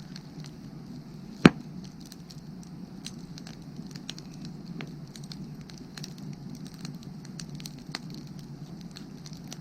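Firewood burning with scattered small crackles and one loud, sharp pop about a second and a half in.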